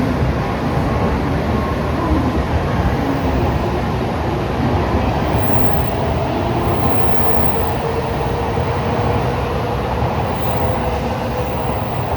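Shinkansen bullet train moving through the station: a loud, steady rumble with a faint whine in the middle.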